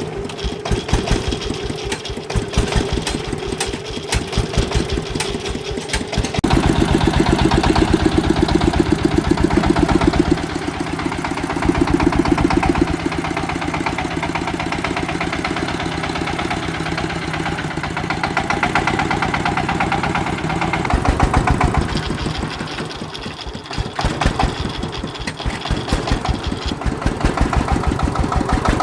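Engine of a farm vehicle running with an even firing rhythm, its sound getting louder and heavier about six seconds in and easing back about 21 seconds in.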